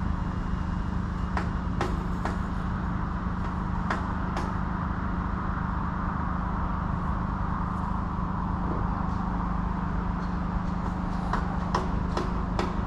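Hammer blows on a JCB digger that builders are banging on, trying to fix a machine the onlooker thinks has broken down. A few single strikes come a couple of seconds in and a quicker run of strikes comes near the end, over a steady low engine hum.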